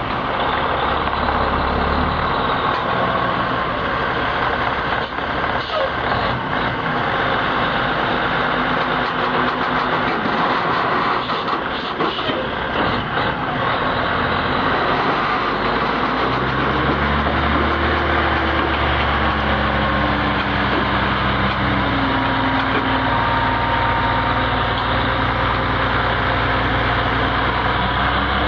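Heavy truck engine running amid road noise. About halfway through it settles into a steady low engine drone.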